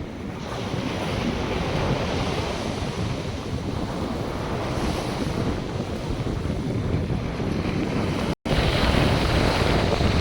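North Sea surf washing onto a sandy beach, mixed with wind buffeting the microphone. The sound cuts out completely for a split second a little past eight seconds in, then comes back slightly louder.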